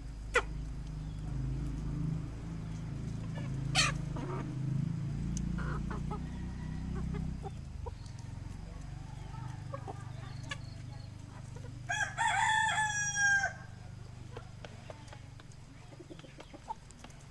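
Free-range chickens clucking softly as they feed, with a rooster crowing once about twelve seconds in, a call of about a second and a half. Two sharp clicks in the first four seconds and a low rumble that fades out about seven seconds in.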